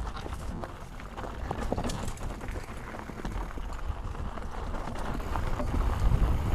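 Mountain bike rolling over a rough dirt and rock trail: irregular crunching and rattling of tyres and bike, over a low rumble, growing louder near the end.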